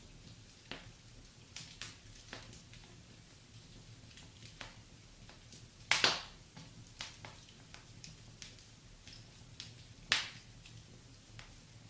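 Wood fire crackling in a fireplace, with scattered small snaps and two louder pops, one midway and one about ten seconds in.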